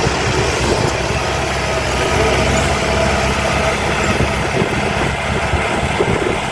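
Diesel engine of heavy earthmoving machinery running steadily, with an even low rumble under a broad mechanical noise.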